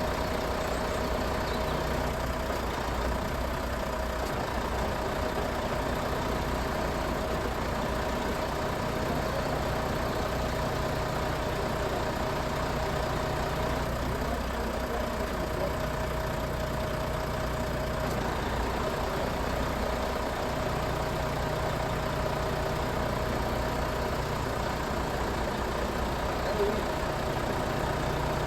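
Truck engine idling steadily, a constant low hum with a steady higher tone running over it.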